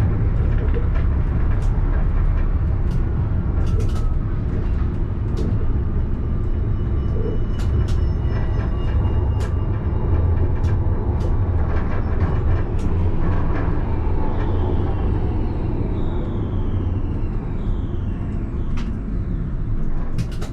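Alstom Citadis tram running, heard from inside the driver's cab: a steady low rumble with scattered sharp clicks and knocks from the wheels and track. Near the end a faint high whine falls in pitch.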